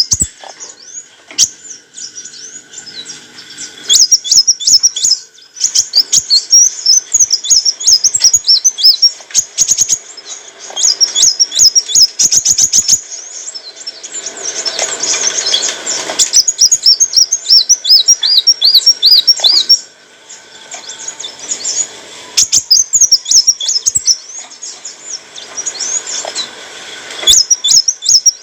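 Sunbird (kolibri wulung) singing: rapid, high twittering chirps and fast trills in bursts, broken by short pauses.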